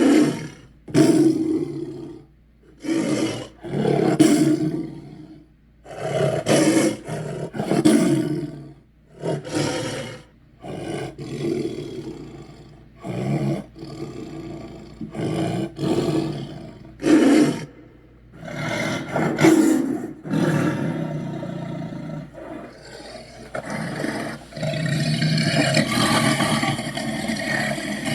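Monster-like animal roar sound effects, a blend of bison, big cat and bear: a run of short, loud roars one after another, then one long continuous roar near the end.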